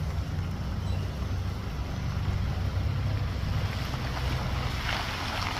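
Wind buffeting the microphone, a steady low rumble, with a brief hiss about five seconds in.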